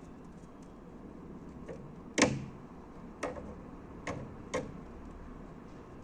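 A few sharp taps or clicks, four clear ones over about two and a half seconds, the first the loudest: a white-winged dove pecking at food.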